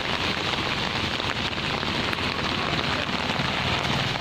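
Steady heavy rain falling, an even, dense patter of drops.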